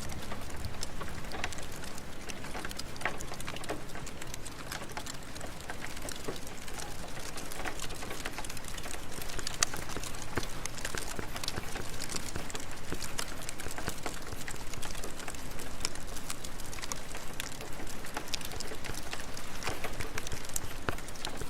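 Steady rain falling, with scattered sharp crackles from a wood fire in a fireplace.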